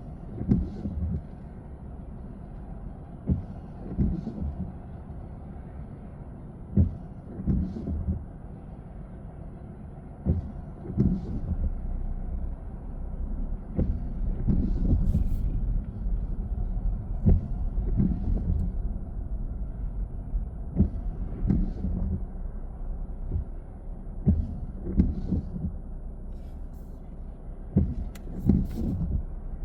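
A car driving along, with a steady low road and engine rumble. Frequent short thumps and knocks come at irregular intervals every second or few seconds.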